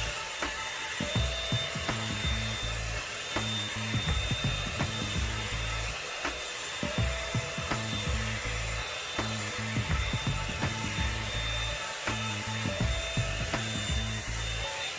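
Revlon One-Step hot air brush dryer blowing steadily on its high setting while being worked through coarse hair, with short scratchy sounds of the bristles rubbing through it.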